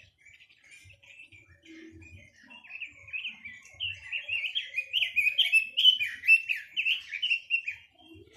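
A quế lâm songbird singing a fast, varied run of warbled phrases that builds from about two seconds in, gets loud, and stops just before the end.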